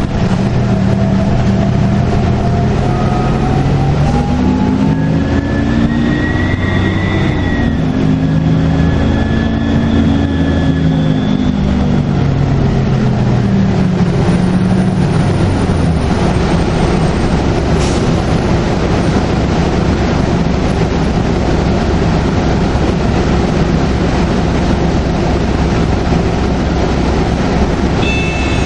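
Detroit Diesel Series 50 diesel engine of a NABI 40LFW transit bus under way, its pitch rising and falling twice, with a high turbo whistle over it. For the last part it settles into a steady drone with road noise.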